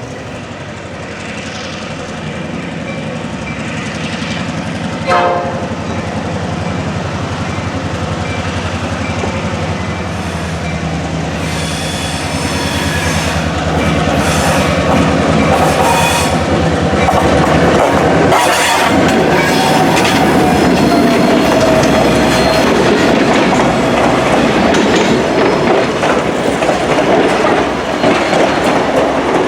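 A train draws near and passes, steadily growing louder, its wheels clicking over rail joints with some squeal. A short signal blast sounds about five seconds in.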